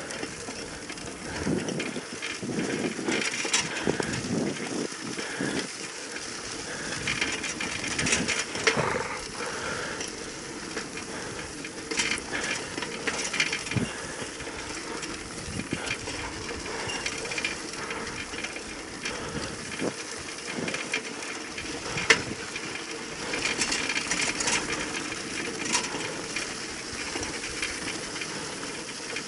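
Light metallic clinking and rattling over a faint steady hum, with scattered sharp clicks, the loudest about 22 seconds in.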